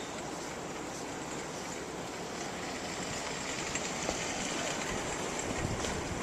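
Strong wind blowing, a steady rushing noise, with gusts buffeting the camcorder's microphone into a low rumble that grows near the end.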